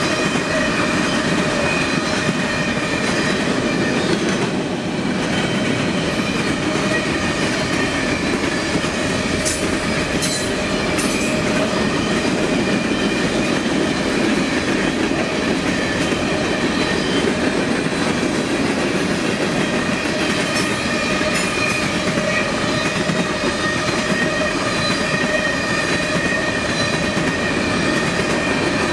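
A train rolling past on the rails, a steady rumble of wheels with several steady high-pitched squealing tones over it. A few sharp clicks come about ten seconds in.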